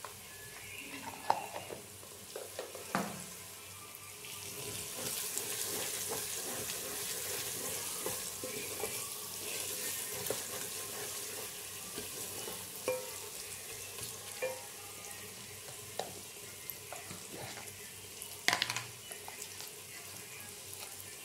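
Onions, tomato and green chilli frying in oil in a metal pot: a steady sizzle, strongest for several seconds in the middle, while a spoon stirs and knocks against the pot a few times. The loudest knock comes near the end.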